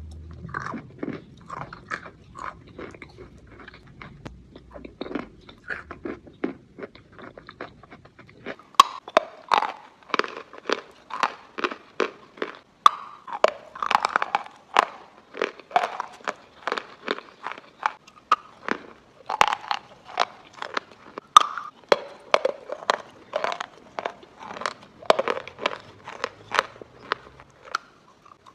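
A person biting and chewing a piece of chalk close to the microphone: a run of crisp crunches, about one or two a second. They are fainter for the first eight seconds or so, then louder and sharper.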